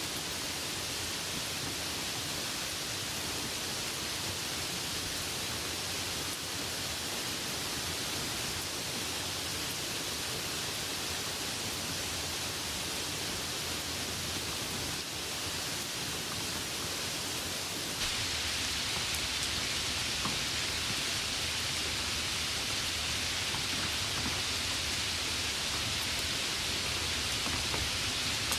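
Steady heavy rainfall: a dense, even hiss of rain with no separate drops standing out. About two-thirds of the way through it abruptly becomes louder and brighter.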